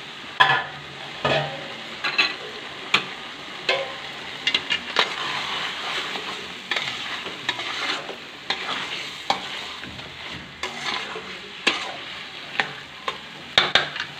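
Masala-coated chicken sizzling in oil in a steel wok (kadai) while a spatula stirs it, scraping and knocking against the pan in irregular sharp clinks over the steady sizzle.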